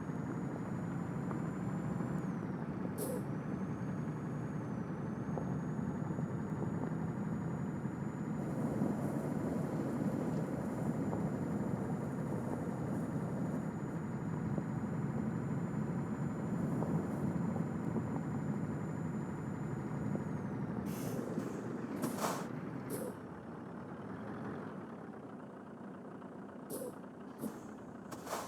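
Scania truck's diesel engine running steadily, with a thin high whine that stops about two-thirds of the way in. Near the end the engine quietens and there are several short, sharp air-brake hisses.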